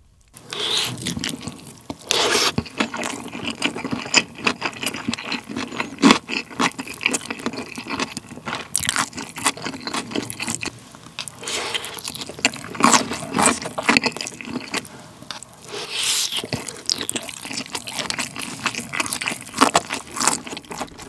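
Close-miked chewing of a mouthful of sauced rice and chicken, a dense run of crackly mouth sounds with louder bursts every few seconds, mixed with a spoon scraping a ceramic bowl.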